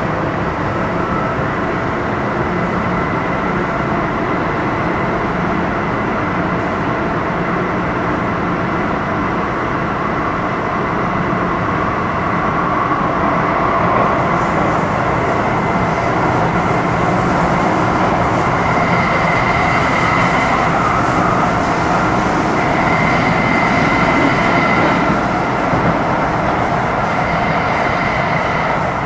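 Interior running sound of an MTR Metro Cammell M-Train (C453 car) with GEC GTO chopper traction, travelling between stations: steady wheel-and-rail noise with humming tones. A high whistling tone comes and goes twice in the second half.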